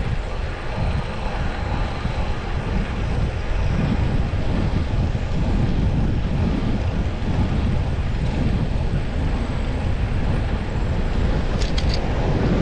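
Wind buffeting the microphone of a camera on a road bike in motion, a steady low rumble with road noise underneath. A few brief high clicks near the end.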